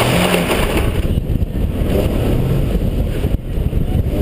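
Nissan 370Z's 3.7-litre V6 accelerating hard on an autocross run, its pitch rising and falling, under heavy wind noise on the microphone.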